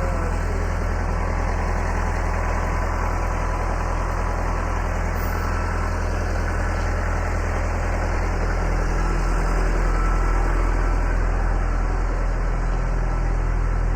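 A large engine idling steadily, with a deep even hum that gets a little fuller about two-thirds of the way through.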